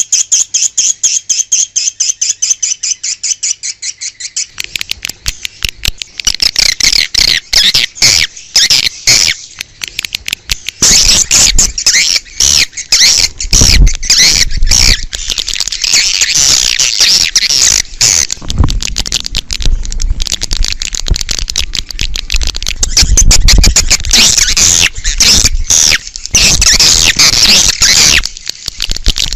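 Swiftlet lure call of edible-nest swiftlets chattering. It opens with a fast, even train of chirps, then turns into a dense, continuous twittering from about six seconds in, with a low rumble underneath at times.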